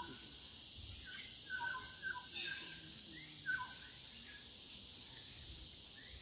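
Forest birds calling with short whistled chirps, several of them falling in pitch, clustered in the first few seconds. A steady high insect-like hiss runs underneath.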